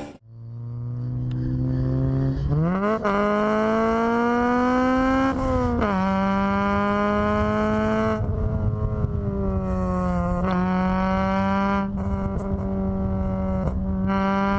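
Honda Civic EG6's B16A VTEC four-cylinder engine pulling hard through the gears. After a low steady note, the revs jump up about two and a half seconds in and climb steadily. The pitch drops at a gear change about six seconds in, and dips again near ten seconds.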